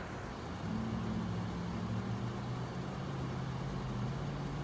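A vehicle engine idling with a steady low hum that comes in under a second in.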